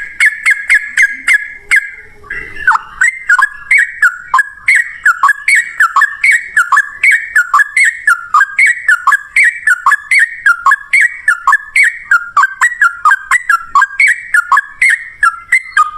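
Yellow-vented bulbul (trucukan) singing a fast, continuous 'ropel' song: a quick run of repeated notes for the first two seconds, then an unbroken stream of short, down-slurred notes, about two to three a second.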